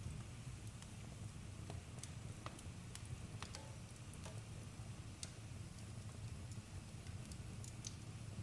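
Wood campfire crackling: irregular sharp pops and snaps, some louder than others, over a low steady rumble.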